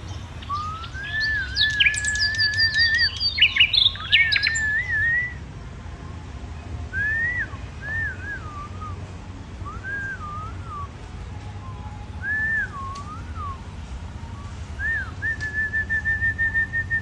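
A bird singing a series of clear whistled phrases, each note rising and falling. A higher, busier twittering overlaps it in the first five seconds, and the song ends in a fast run of repeated notes. A steady low rumble runs underneath.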